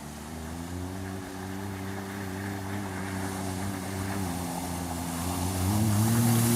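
A racing vehicle's engine running and growing louder as it approaches, its pitch dipping about four seconds in and climbing again near the end as the throttle changes.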